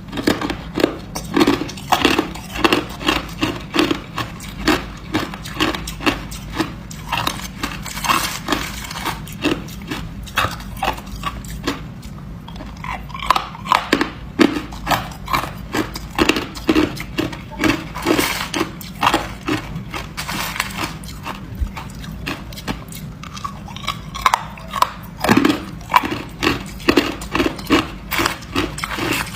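Hard ice being bitten and chewed close to the microphone: a steady run of sharp crunches, about two to three a second, with a couple of short lulls.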